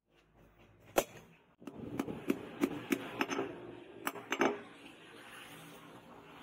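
A hammer striking metal in a series of sharp, irregular blows, roughly three a second, each with a short ring, over steady workshop noise.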